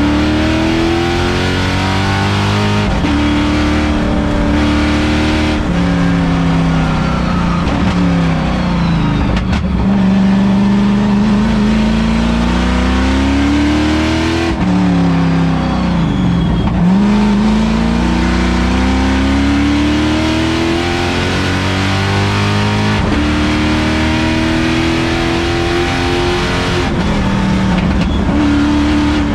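LS3 V8 in a Mazda Miata race car, heard from inside the stripped, caged cabin, running hard on track. Revs climb and drop again and again as it accelerates, shifts gear and slows for corners, with several sudden pitch drops at the shifts.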